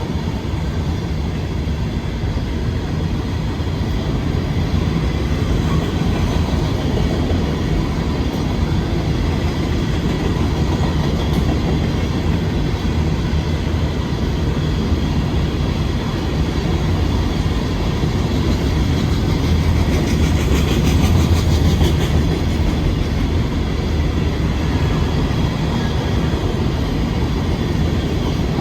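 Empty freight train of rock hopper cars rolling past, a steady low sound of steel wheels on the rails, with a quick run of wheel clicks over rail joints about 20 seconds in.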